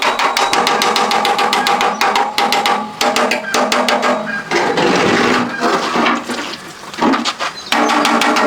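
Rapid hammering, many quick blows a second, with a steady ringing tone under the strikes.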